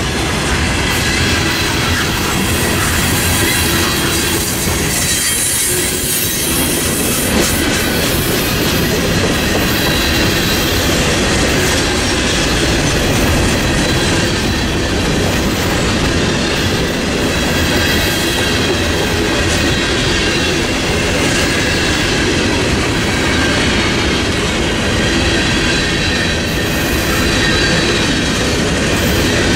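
Loaded freight train of covered hopper cars rolling steadily past: a continuous rumble and rattle of steel wheels on rail, with thin, steady high-pitched squealing from the wheels over it.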